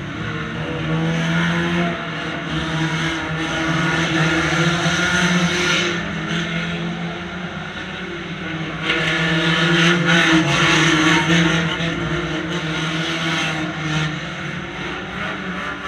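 Banger racing car engines: a steady idle heard from inside the stationary car, with louder swells of other cars' engines revving and moving about outside, around four to six seconds in and again around nine to twelve seconds.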